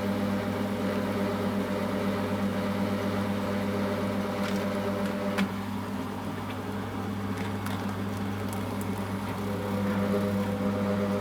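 1974 Zoppas Superautomatic 242 washing machine running its wash cycle: a steady electric motor hum that cuts off with a click about five seconds in, then starts again near the end, as the drum pauses between tumbling turns.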